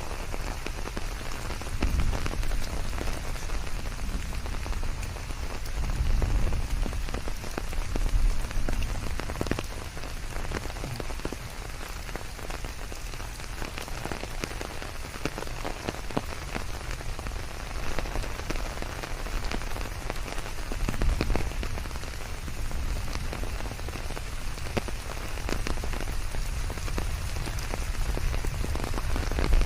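Steady rain falling on leaves: an even hiss dotted with the ticks of single drops, with a low rumble that swells a few times.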